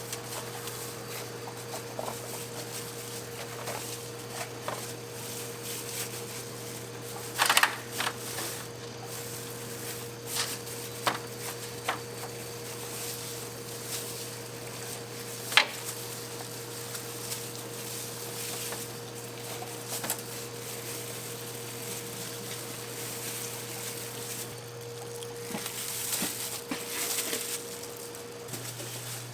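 Kitchen work sounds: scattered clicks and knocks of utensils over a steady machine hum with a faint steady tone, which stops shortly before the end. One louder rattling clatter comes about seven seconds in, and a sharp click about halfway.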